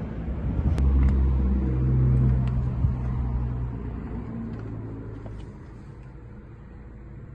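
Porsche 996 GT3's 3.6-litre flat-six engine running, swelling to its loudest in the first three seconds and then fading steadily away. A few sharp clicks are heard early.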